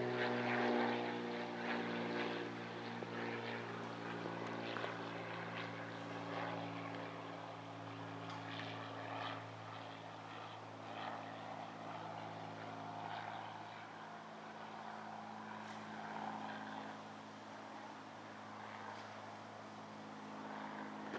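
Low-flying propeller airplane passing overhead, its engine note dipping slightly in pitch near the start and then fading gradually as it flies on.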